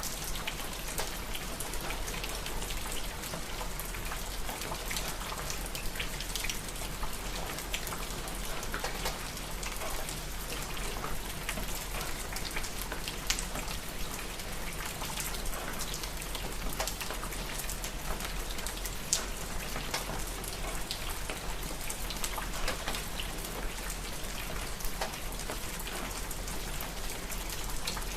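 Steady rain, with many separate drops ticking sharply on a surface close by.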